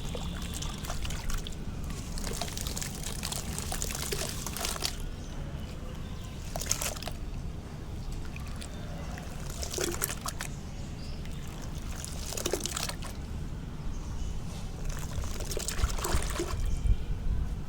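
Soft sand-cement lumps dipped in water and crumbling, a wet trickling crackle that comes in about five bursts, the longest a couple of seconds in, over a steady low hum.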